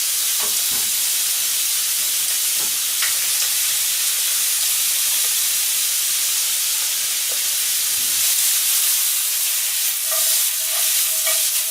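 Bacon frying in a pan: a steady sizzling hiss with a few faint pops.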